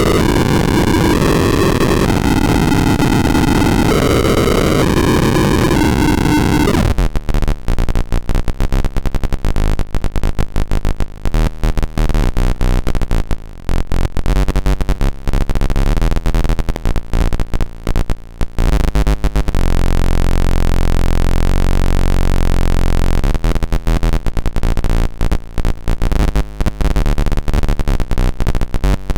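Square-wave oscillators of a Jupiter Storm–style Eurorack noise module putting out a harsh, dense buzz of stepping tones. About seven seconds in it breaks into rapid stuttering clicks. About two-thirds of the way through it settles for a few seconds into a steady low drone, then the clicking returns.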